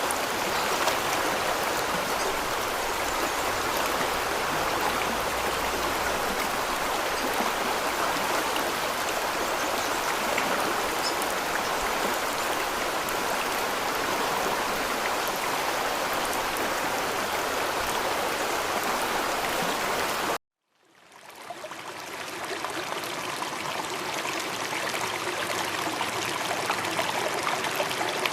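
Steady rush of running water. It cuts off abruptly about twenty seconds in, then fades back in over a second or two.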